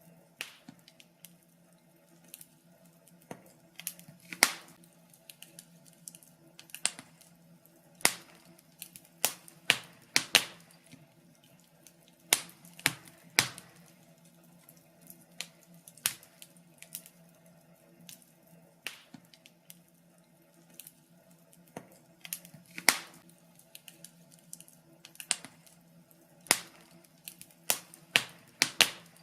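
Wood fire in a fireplace crackling: irregular sharp pops and snaps, a few of them much louder than the rest, over a faint steady low hum.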